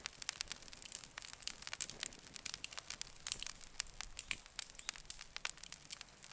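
Campfire crackling, with irregular sharp pops and snaps, several a second, over a faint hiss.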